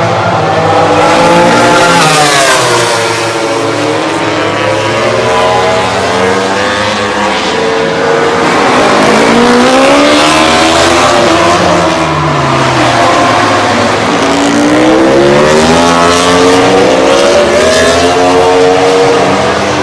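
MotoGP racing motorcycles going past at speed, their engines revving up and dropping back through gear changes again and again, with several bikes overlapping. The sound stays loud throughout.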